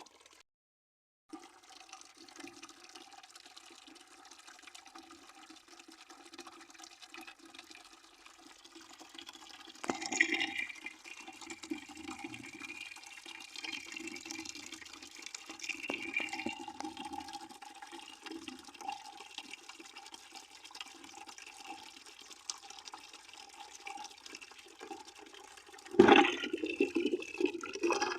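Water running into a bucket, a steady splash that gets louder about ten seconds in and jumps to its loudest near the end.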